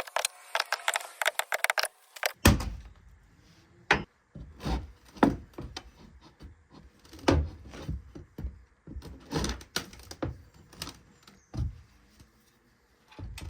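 Wooden knocks and thumps at irregular intervals as a damaged plank is worked loose from a wooden boat hull, after a quick run of crackling clicks in the first two seconds.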